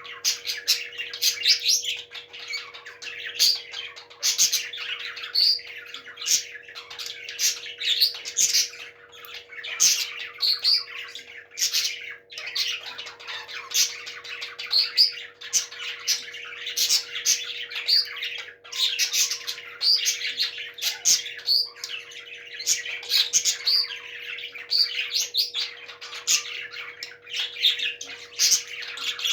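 Parrots chirping and squawking without pause, short high calls following one another in quick succession.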